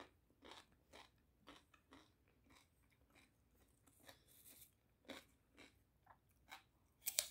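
Faint crunching of a person chewing crisp food, short crunches about twice a second, the loudest one near the end.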